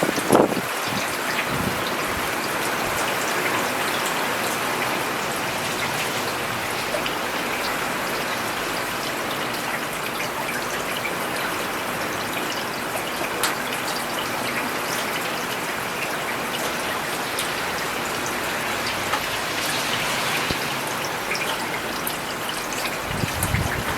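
Steady rain falling on a road, with many separate drops ticking close by. A brief low thump comes about half a second in, and a low rumble near the end.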